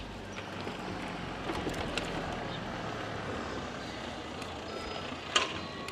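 Steady outdoor noise of a bicycle ride, with one sharp click near the end.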